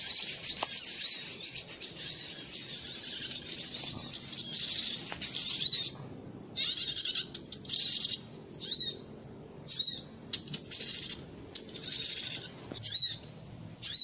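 A small bird stuck on a birdlime-coated stick, calling with rapid high chirps. The calls run without a break for about six seconds, then come in short bouts with gaps.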